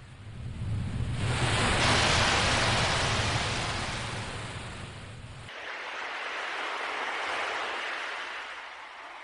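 Ocean waves washing ashore: a rush of surf swells up and draws back, then a second, softer swell follows about halfway through.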